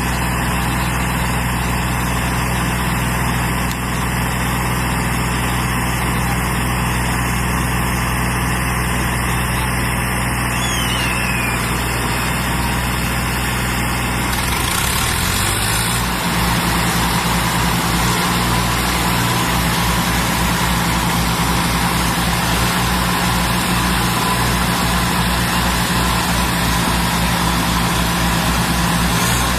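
Diesel tractor engines running hard under the load of a tractor tug-of-war. Engine speed rises about halfway through, then holds steady with a low pulsing beat.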